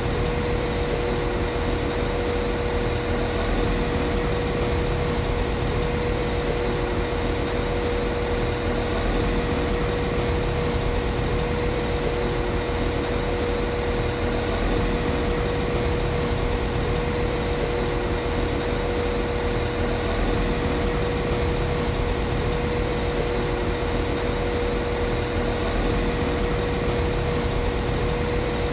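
Class 195 CAF Civity diesel multiple unit's underfloor diesel engine idling steadily, a low even rumble with a steady hum held at one pitch above it.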